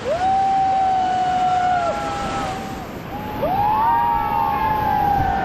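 Several rafters yelling in long held whoops, twice, the second starting about three and a half seconds in, over the steady rush of river rapids.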